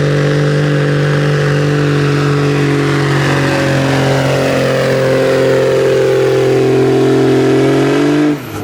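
Pulling truck's engine held at high revs under heavy load as it drags the sled, running steadily with the pitch creeping up slightly, then cutting off abruptly near the end as the throttle is released.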